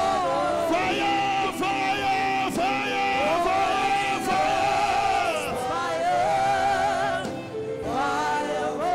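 Church worship singing of a gospel chorus: voices hold long, gliding notes over instrumental backing.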